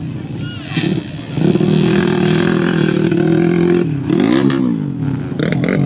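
Motocross bike engine held at steady high revs for a couple of seconds, then the revs swing briefly down and up about four seconds in.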